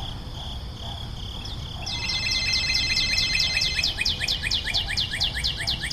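A rapid trill of high, falling chirps, about six or seven a second, starting about two seconds in, from a bird or insect, over a low steady rumble.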